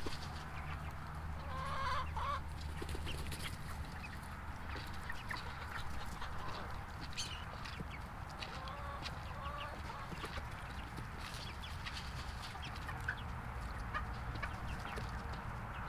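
Chickens clucking, with short calls scattered throughout and a few louder ones about two seconds in and near the end.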